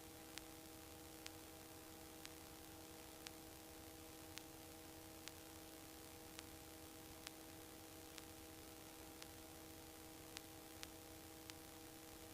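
Near silence: faint steady hiss with a low electrical hum on the headset audio line, and faint ticks about once a second.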